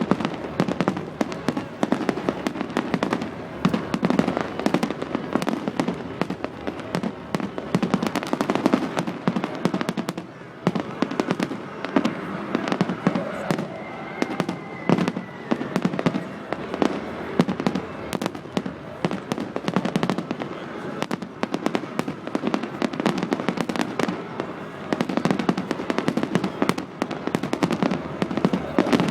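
Fireworks going off in a dense, continuous barrage of rapid bangs and crackles. A brief high whistle sounds about halfway through.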